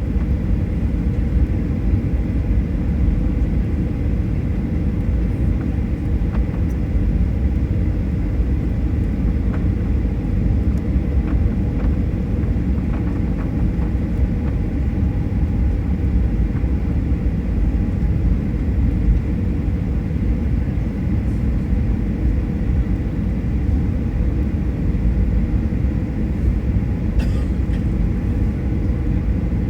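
Jet airliner cabin noise: a steady low rumble with faint steady tones above it, and a few faint clicks near the end.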